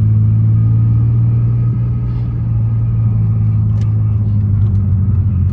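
Muffler-deleted 2002 Pontiac Grand Prix GT's 3.8-litre V6 running in first gear through an open exhaust, a loud steady drone that dips slightly about two seconds in. From about four seconds in there are a few small sharp exhaust pops.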